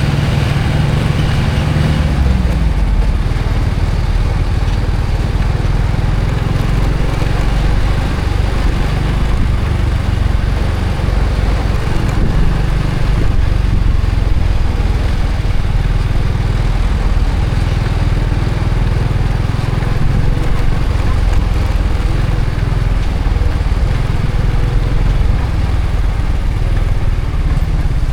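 Honda Supra X 125 FI's single-cylinder four-stroke engine running steadily while the motorcycle is ridden along the road, with a constant heavy low rumble of engine and ride noise.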